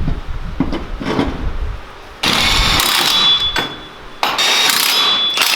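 Compressed air hissing in two sharp bursts of about a second and a half each, with a faint whistle, after a few knocks and clatter.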